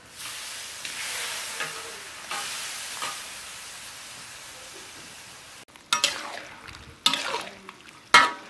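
Cubes of chicken blood curd dropped into hot oil and garlic in a wok, sizzling loudly at first, then fading. Near the end, a metal ladle stirs in the wok with three sharp, ringing clanks against it, the last the loudest.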